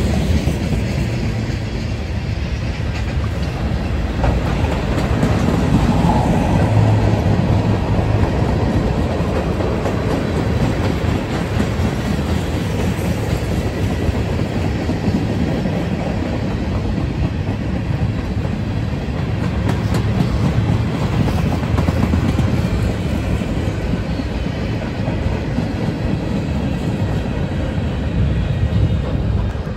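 Manifest freight train's cars (tank cars, a boxcar, centerbeam flatcars) rolling past at close range: steel wheels running on the rails in a steady rumble.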